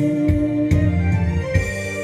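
Saxophone duet playing over an electronic accompaniment track with organ-like keyboard and a drum beat. A long held note gives way to new notes about a second in.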